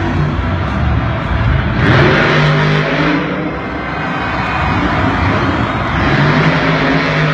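Monster truck engine running hard, its pitch rising and falling as it is revved, with louder surges about two seconds in and again about six seconds in.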